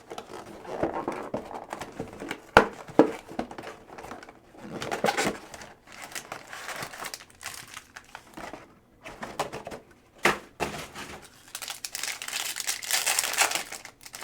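Trading card packs being torn open by hand, their wrappers crinkling and rustling in irregular bursts, with a few sharp snaps.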